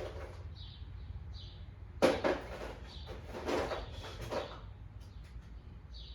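Knocks and clatter of parts being handled during lawn-tractor headlight repair: one sharp knock about two seconds in, then a few softer rattles, over a steady low hum.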